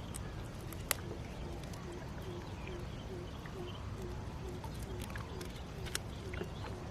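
Small boat on a river: a steady low rumble with a soft, regular pulse about twice a second and scattered light clicks and knocks.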